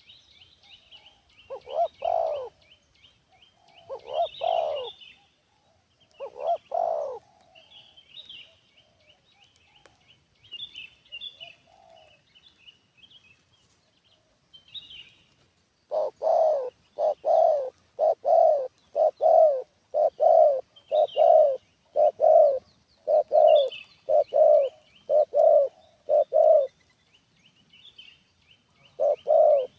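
Dove cooing in short, low notes: a few spaced coos, then a fast even run of about one and a half coos a second lasting some ten seconds, starting up again near the end. Small birds chirp higher up in the background.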